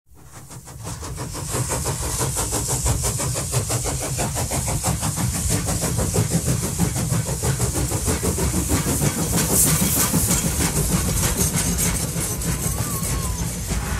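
A train running with a fast, steady, rhythmic chugging over a low rumble and a hiss, fading in at the start.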